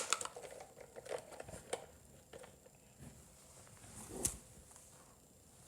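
Plastic toy pieces and figures being handled: faint scattered clicks and rustles, with one louder knock about four seconds in.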